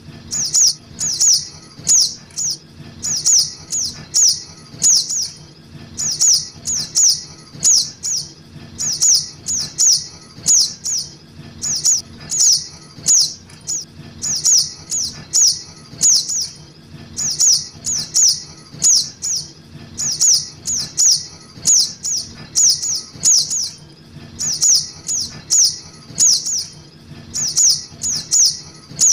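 Juvenile little spiderhunter (sogok ontong) calling, played as a bird-lure recording: short, high, downward-sliding chirps repeated two to three a second in runs, with brief pauses between runs.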